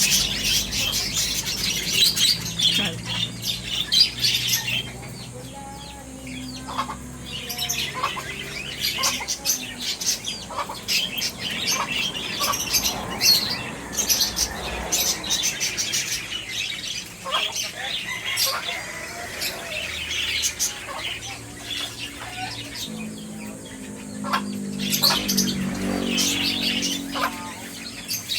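Lovebirds chattering: many rapid, overlapping high-pitched chirps and squeaks.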